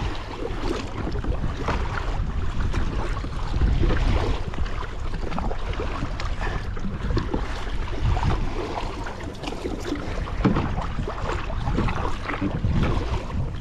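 Kayak paddling on open water: irregular paddle splashes and water sloshing against the hull, with wind rumbling on the microphone.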